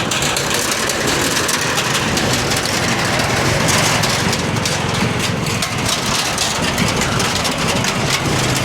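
Steady, loud road noise: motorbike engines running under a constant rushing hiss.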